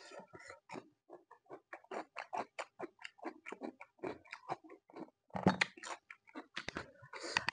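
Close-miked chewing with wet mouth clicks, several a second. About five and a half seconds in comes a louder cluster of knocks as a cooked buffalo marrow bone is lifted from the pile.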